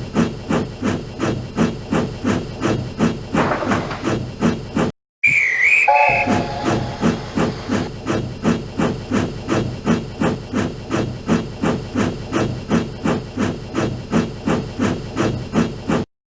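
Recorded steam locomotive working steadily, its exhaust chuffing in an even beat of about two to three a second. The sound breaks off for a moment about five seconds in, and a short whistle blast sounds as the chuffing picks up again.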